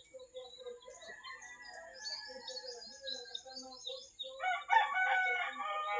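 A rooster crows once, loud and about a second and a half long, starting about four and a half seconds in. Before it, small birds chirp over a steady high-pitched hiss.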